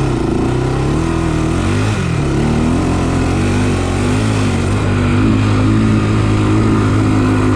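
Honda 400EX/400X sport quad's single-cylinder four-stroke engine under hard throttle climbing a steep dirt hill. Its pitch rises near the start, dips about two seconds in, then wavers up and down as the throttle is worked.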